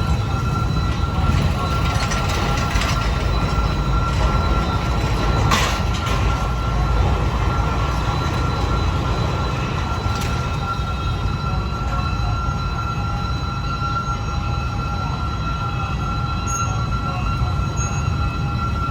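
A passenger train rolling past with a steady low rumble, its wheels giving a sustained high squeal.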